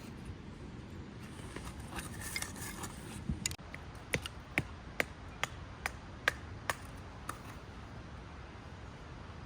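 A run of about nine sharp taps, evenly spaced at a little over two a second, after a moment of rustling.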